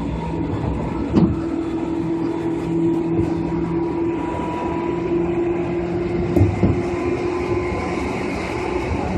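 Seibu 2000 series electric train running along the line: a steady hum from the motors and gears, with a sharp knock about a second in and two more knocks around two-thirds of the way through as the wheels cross rail joints.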